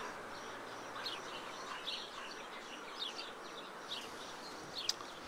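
Faint birdsong: small birds giving short, high chirps at irregular intervals over a soft outdoor hiss, with one sharper chirp near the end.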